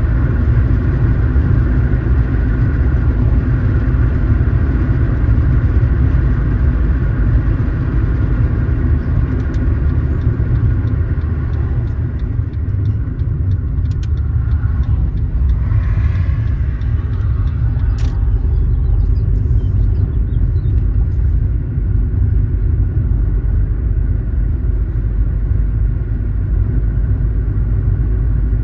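A car driving along, with steady low engine and road rumble. A few faint clicks come about halfway through.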